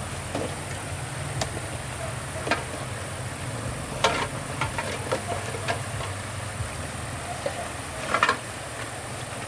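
A steady low hum, like a running motor, with scattered short clicks and knocks on top, the sharpest about four seconds in and a short cluster near the end.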